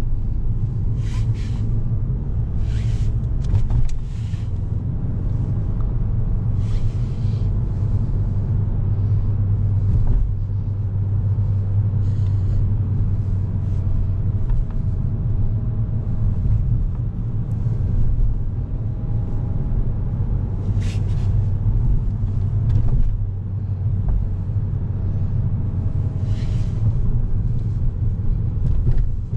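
2011 Volkswagen Golf VI with its twincharged 1.4 TSI four-cylinder and DSG gearbox, driving: a steady low rumble of engine and road with a faint whine that rises and falls gently. A few short higher-pitched bursts of noise come and go.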